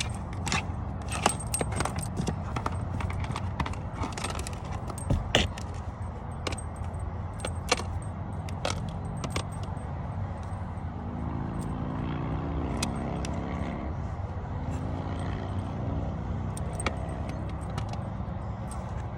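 Irregular small clicks and rattles over a steady low rumble, the clicks thicker in the first half.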